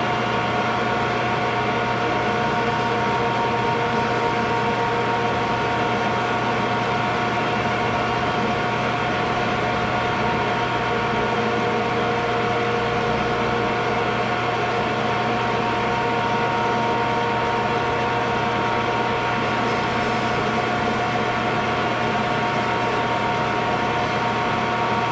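Metal lathe running steadily, its motor and gears giving a constant multi-toned whine, while it turns the face of a small engine valve.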